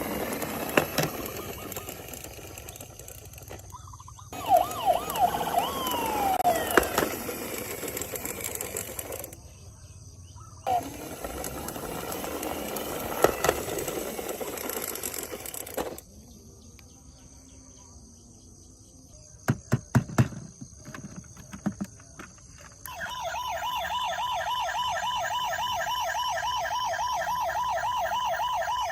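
Toy emergency vehicle's electronic siren sounding in a fast warble, starting about three-quarters of the way in. Before it come scattered clicks and knocks and a few short pitch glides.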